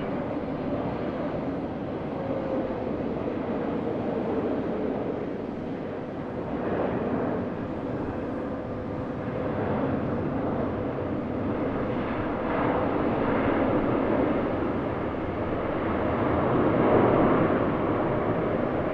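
Jet airliner engines rumbling as an aircraft passes, with a faint steady whine under the noise. The sound swells to its loudest near the end.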